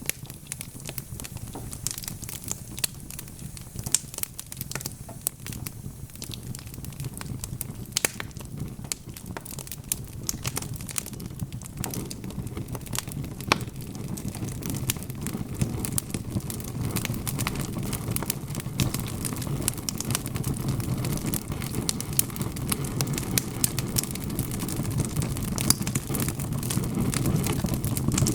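Wood fire crackling, with frequent sharp pops and snaps over a low rushing of flames that grows louder through the second half.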